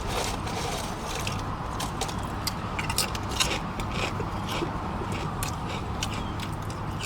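Close-up chewing and mouth sounds from eating a jerk turkey sub sandwich: irregular wet clicks and smacks, over a steady low hum.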